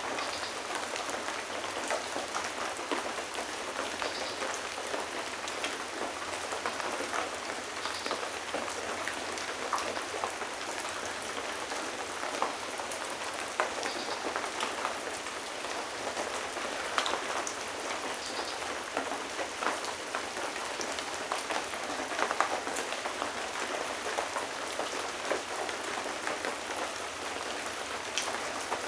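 Steady rain falling, with many individual drops striking a surface as sharp ticks through an even hiss.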